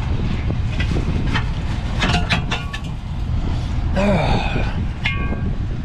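Truck engine running steadily, a low rumble heard from inside the cab, with scattered light clicks and rattles.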